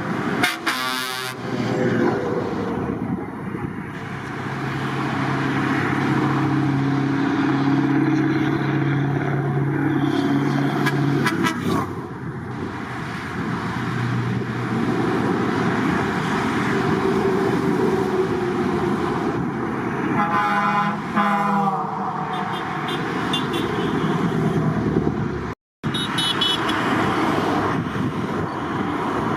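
Heavy trucks driving past in a convoy with engines running, and truck air horns sounding several times: a short high blast near the start, a long low two-tone horn held for several seconds, and more blasts later on.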